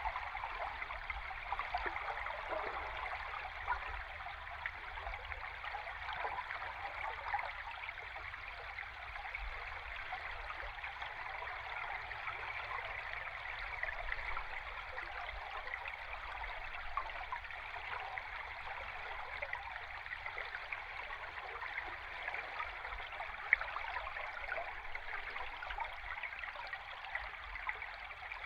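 Flowing river water heard underwater: a steady rush full of fine bubbling crackle, over a faint low rumble, with one sharper click about 23 seconds in.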